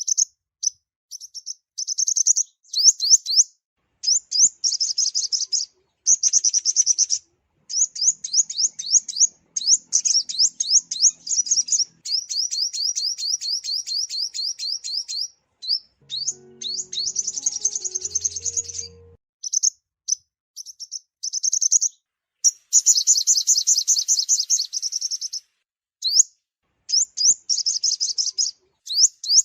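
Sunbird song: rapid runs of thin, high chirps and fast trills in bursts of one to several seconds, broken by short silent gaps.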